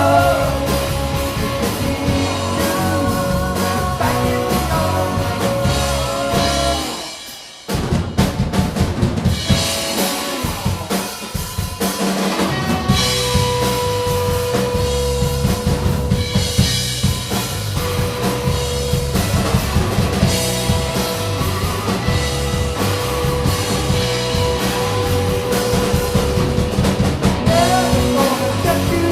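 Live rock band playing an instrumental passage with the drums to the fore. About seven seconds in the sound drops away briefly, then the drums come back in, and a long held note runs under them through the second half.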